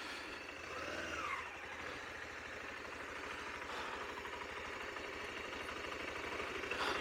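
Motorcycle engine idling steadily after pulling up.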